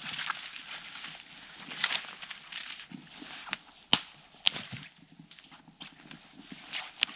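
Rustling and crunching, broken by four sharp snaps or cracks about two, four, four and a half and seven seconds in.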